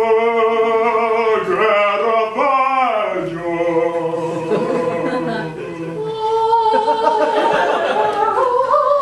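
A man singing unaccompanied in a loud, high voice: long held notes with swoops up and down between them.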